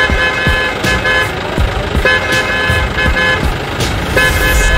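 Vehicle horn honking repeatedly in short and longer toots, over a low rumble.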